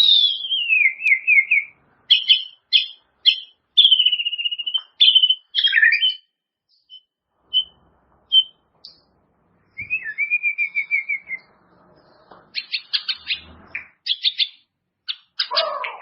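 White-rumped shama (murai batu) singing a varied song of clear whistles, rapid trills and short clipped notes, broken by brief pauses, with a fast run of sharp notes near the end.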